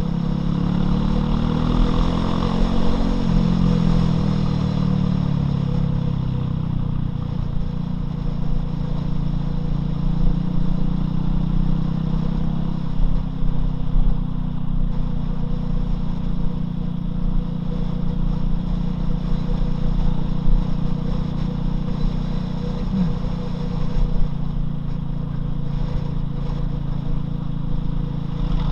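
Loncin LX250-12C motorcycle engine running while riding. Its pitch rises and falls with throttle and gear changes during roughly the first dozen seconds, then holds fairly steady.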